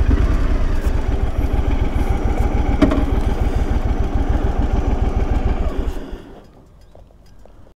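Motorcycle engine idling with a fast, even low pulse, then switched off about six seconds in and running down, leaving only faint ticks.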